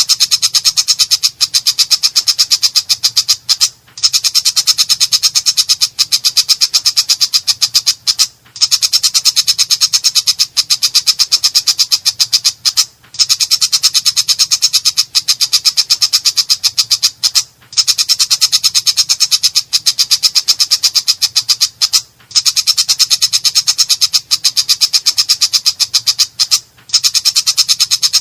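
Long-tailed shrike (cendet) giving a harsh, rapid rattling chatter, a fast string of scratchy notes that runs for several seconds at a time, broken by a brief pause about every four and a half seconds.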